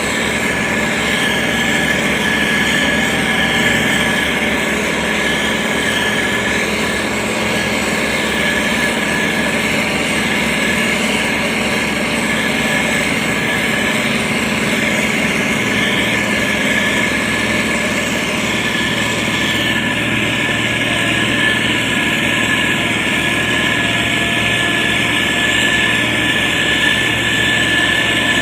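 Diesel engine of a SANY STG190C-8S motor grader running steadily, with a constant high whine over the engine note.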